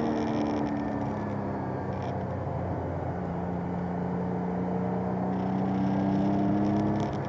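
Alpine A310 V6's engine running under load on track, its pitch climbing slowly through a gear, with a brief dip in level and pitch near the end.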